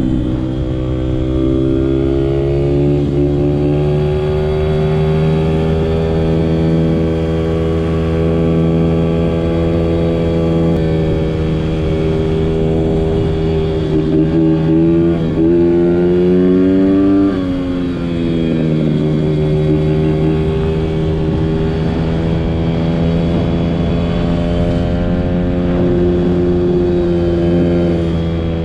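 Small Honda 50cc dirt bike engine running at part throttle, its pitch wandering up and down with the throttle; about halfway through it revs up, then drops back sharply. A low rumble of wind on a helmet-mounted camera runs under it.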